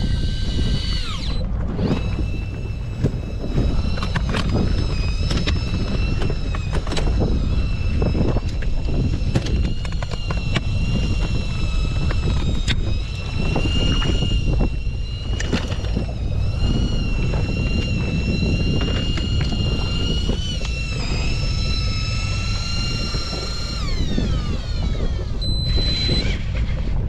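A small electric motor whining steadily at a high pitch, its pitch wavering slightly, then winding down with a falling whine near the end, followed by two short high beeps. Wind rumbles on the microphone underneath.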